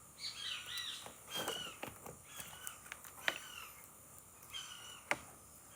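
Birds giving short, repeated calls that bend up and down in pitch, with a few sharp clicks among them.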